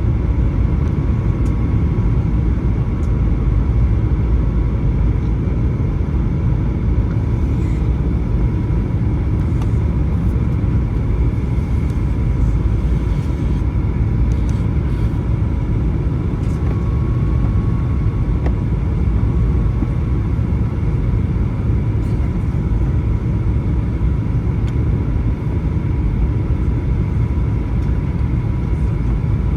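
Steady cabin roar of a Boeing 737-900 on approach, the rush of airflow and the CFM56-7B turbofans heard from inside the passenger cabin, with a faint steady whine.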